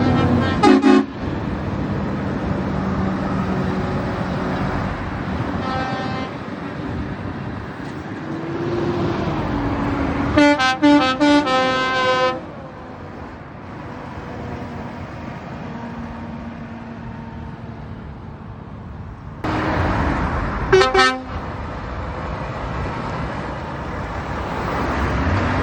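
Trucks pulling away, engines running and revving, with repeated truck horn blasts: a short blast at the start, a loud string of toots about ten to twelve seconds in, and another short blast about twenty seconds in.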